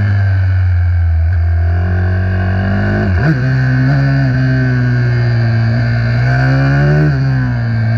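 Small mini racing motorcycle engine running hard at steady high revs, its pitch dipping briefly and climbing back twice: about three seconds in and again near the end.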